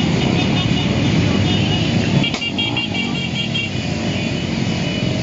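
Steady din of many motorcycle engines running together in a caravan, with a single sharp knock a little over two seconds in.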